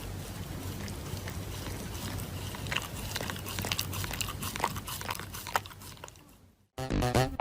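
A dog chewing and crunching on something, with irregular crackling clicks over a steady background hiss. The clip cuts out near the end and loud music starts.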